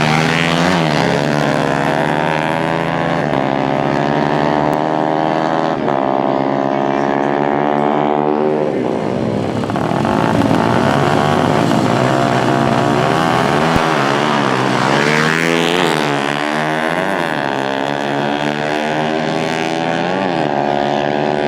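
Dirt bike engines running and revving, more than one at once, their pitches wavering and crossing, with sharper rev sweeps about nine seconds in and again around sixteen seconds.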